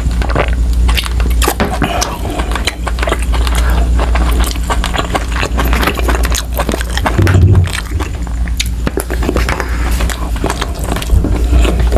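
Close-miked eating sounds: a swallow of drink, then chewing with many quick wet clicks and smacks, and a brief low hum from the eater about seven seconds in. A steady low hum runs underneath.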